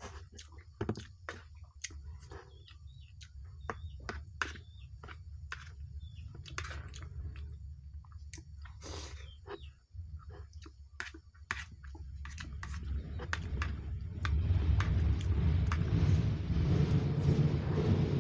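Close-up chewing of a rice meal, with short sharp clicks of a spoon against the plate. About thirteen seconds in, a loud rumbling noise swells up and covers it.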